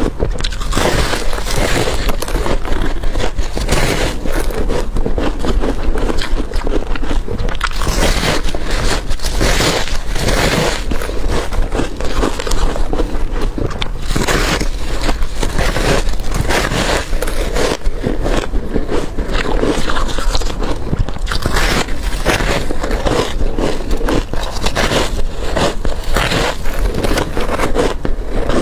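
A person biting and crunching hard crushed ice right at the microphone: a dense, unbroken run of loud, crackling crunches, several a second, with no pauses.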